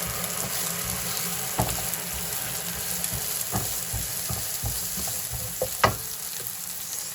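Sliced onion and red capsicum sizzling in hot oil in a pan while being stirred, with several short knocks of the stirring spoon against the pan, the sharpest a little before the end.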